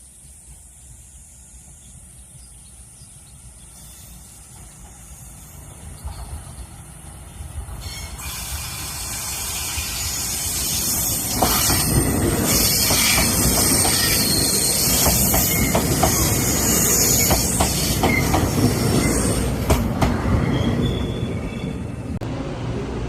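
A Taiwan Railway train approaching and passing close by, growing louder for about ten seconds, then loud with the wheels clacking over rail joints and a high hiss and squeal from wheels on rail, easing slightly near the end.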